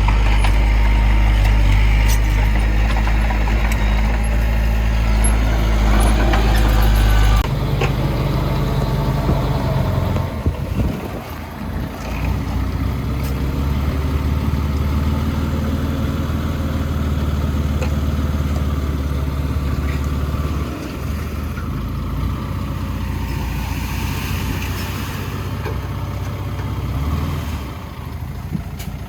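Heavy diesel machinery engines running steadily. About seven seconds in, the engine note changes abruptly and settles into a different steady drone.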